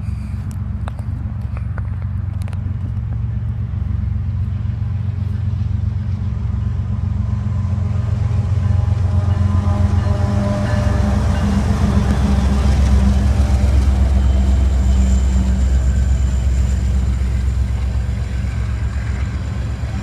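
Diesel locomotives of a slow empty coal train, a GE ES44AC leading three EMD SD70ACe units, running past with a steady low engine drone. It grows louder toward the middle and eases off near the end.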